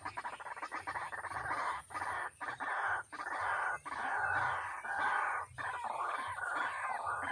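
White-breasted waterhen (ruak-ruak) calling: a dense run of harsh notes in quick succession, broken by a few short pauses.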